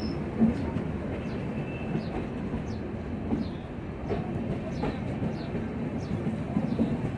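Coaches of an Indian Railways express train rolling past at close range: a steady rumble of wheels on rail with a rhythmic clickety-clack and small knocks. Short high squeaks recur every half second or so throughout.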